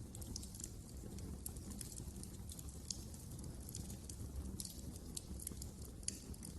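Wood fire crackling: irregular sharp snaps and pops over a steady low rumble of the flames, with a louder snap about three seconds in and another near the end.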